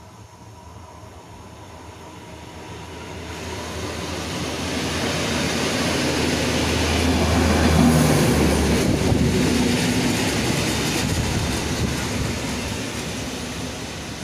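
PKP Energetyka maintenance draisine runs past close by with its engine humming, loudest about eight seconds in, while an EN57 electric multiple unit passes on the other track. Wheels click over rail joints as they go past, and the sound then fades.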